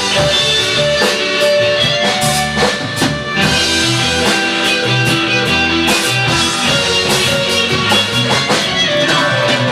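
A live band playing an instrumental passage: guitar over bass and a drum kit with a steady beat, no singing.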